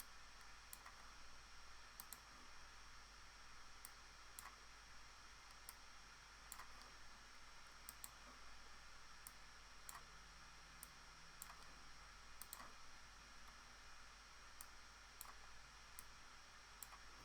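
Faint, irregular clicking of a computer mouse, roughly one click a second, over quiet room hiss.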